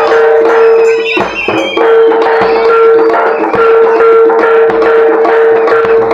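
Live Javanese jaranan music: traditional percussion with drums over a steady held note, which breaks off briefly about a second in.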